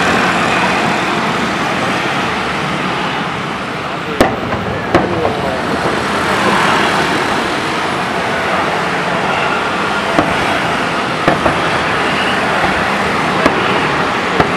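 Fireworks going off in scattered sharp bangs, the strongest about four seconds in, over the steady chatter and hubbub of a large outdoor crowd.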